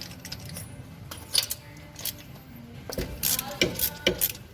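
Metal hand tools clinking and knocking, with a spark plug socket wrench being fitted and worked on the engine: a few sharp clinks about a second and a half in, then a quick cluster of clinks a little later.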